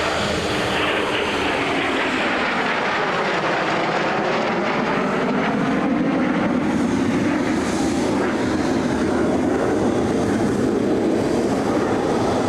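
Eurofighter Typhoon jets flying past with a loud, continuous jet roar. A whooshing sweep in the sound falls over the first few seconds and then slowly rises again as they pass.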